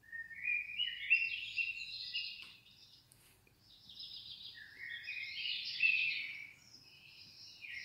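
Birdsong: bursts of high, warbling song, two long phrases with a short pause between and a third starting near the end.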